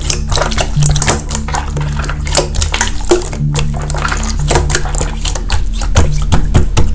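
Slime being squeezed and pressed by hand, giving dense irregular sticky clicks and pops, over background music with steady held low notes.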